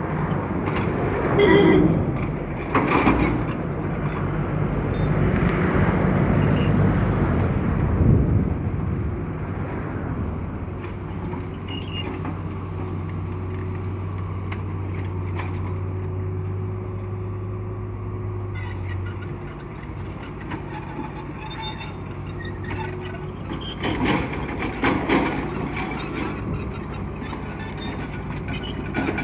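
Heavy diesel engines running steadily, with a low hum throughout. Louder noisy surges come in the first few seconds and again near the end, as machines or vehicles pass close by.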